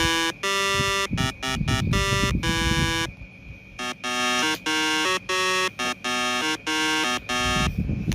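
A buzzy, electronic-sounding melody of short stepped notes, played as a simple tune with brief gaps between the notes, with a low rumble under the first few seconds.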